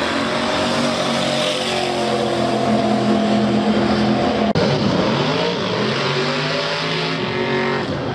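1958 Chevrolet drag car's engine at full throttle on a pass down the strip, its pitch shifting as it pulls away. The sound breaks off for an instant about halfway. Engine noise with a climbing pitch then carries on to the end.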